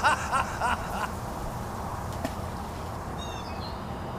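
Steady outdoor background noise with a few short calls in the first second. A small bird chirps briefly, in a quick falling series of notes, about three seconds in.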